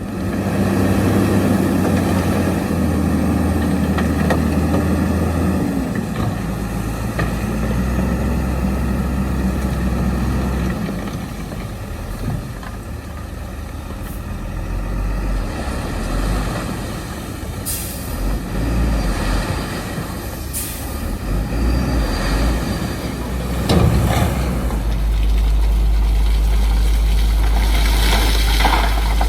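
Diesel engines of heavy earthmoving machinery running under load, the engine note stepping up and down as the machines work. There are a few short, sharp high sounds in the middle and a deeper, steady rumble in the last few seconds.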